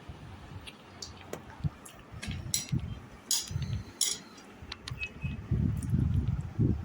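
Close-up eating sounds: irregular chewing with short sharp clicks, the chewing heaviest near the end.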